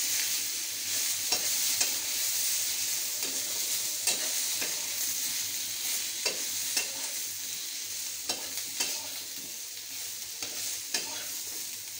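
Masala-coated baby potatoes sizzling in oil in a kadhai while a spatula stirs and scrapes them, with a steady frying hiss and irregular scrapes and taps of the spatula against the pan. The potatoes are being roasted (bhuna) so the masala releases its oil.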